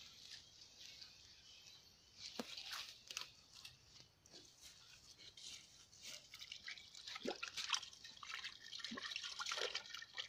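Light intermittent rain: scattered raindrops ticking faintly and irregularly on leaves and bare ground.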